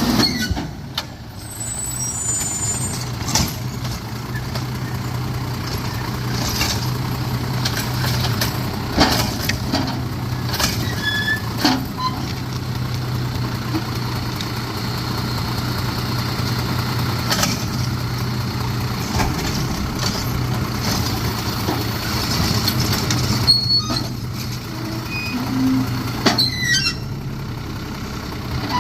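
Garbage truck's diesel engine running with a steady low hum while it picks up and empties a wheeled trash cart, with scattered knocks and clanks through the pickup.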